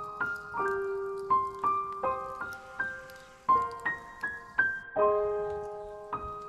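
Background music: a gentle piano melody, single notes and chords struck every half second or so and left to ring.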